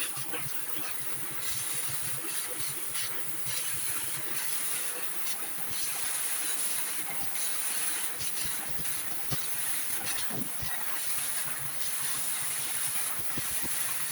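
A steady high hiss, with scattered light clicks and knocks.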